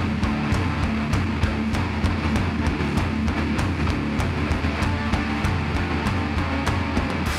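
Heavy rock band playing loud: electric guitars over a pounding drum kit with regular cymbal and snare hits.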